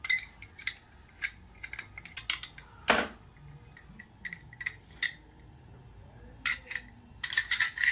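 Steel parts of an anti-blowup oilfield tool clinking and tapping together as the tool is taken apart: a string of sharp metallic clicks, some with a short ring, and one louder clank about three seconds in.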